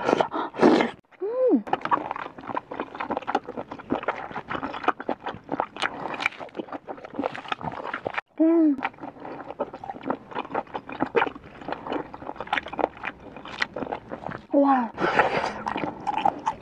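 Close-miked chewing of a chewy smoked snail: a continuous run of wet smacking and squelching mouth noises, with a few short hummed "mmm" sounds of enjoyment, one about a second in and others midway and near the end.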